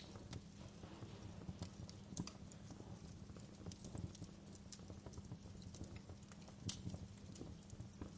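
Wood fire crackling: irregular pops and snaps of varying strength over a steady low rumble, the loudest snaps coming about two seconds in and near seven seconds.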